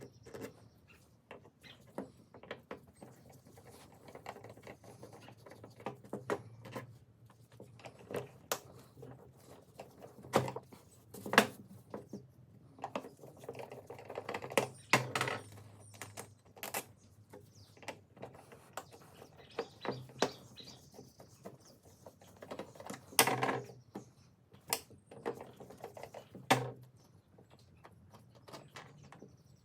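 Hand tools and small plastic and metal parts of a hedge trimmer being handled on a workbench: irregular clicks, taps and knocks, with a few sharper knocks about a third of the way in and twice near the end.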